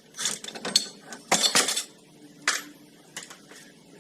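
Metal tools clinking and clattering several times in the first two seconds, then one more sharp clink about two and a half seconds in, from a ball joint separator tool being worked on the ATV's front suspension.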